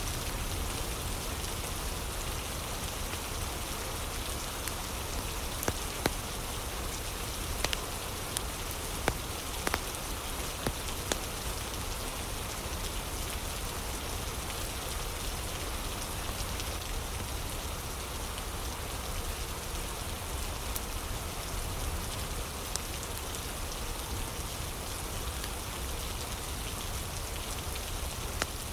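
Steady rain falling, with a few sharp crackles and pops from a burning wood fire, most of them clustered a few seconds in and one more near the end.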